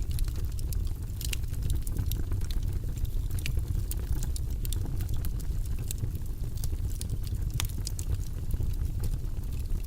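Fire burning in a fireplace, crackling: many irregular sharp pops and snaps over a steady low rumble, with a few louder pops scattered through.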